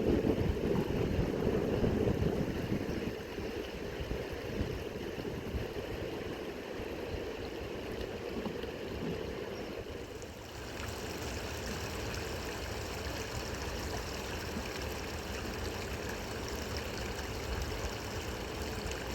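River water flowing, a steady rushing noise, stronger for the first few seconds, with a shift in the sound about ten seconds in.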